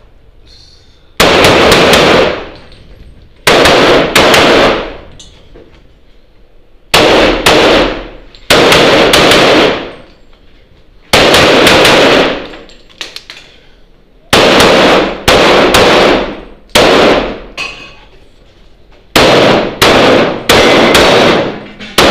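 Pistol shots from a Glock set up for Open division, firing factory ammunition during a timed practical-shooting stage. The shots come in quick pairs and short strings, each with a ringing tail, and there are pauses of a second or more between groups. The last stretch is a faster run of shots.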